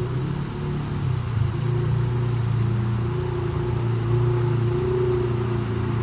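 Polaris RZR side-by-side's engine running steadily at an even pitch.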